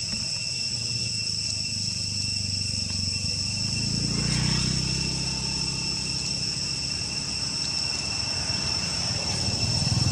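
Insects chirring steadily in a high pitch over a low rumble that grows louder about four seconds in.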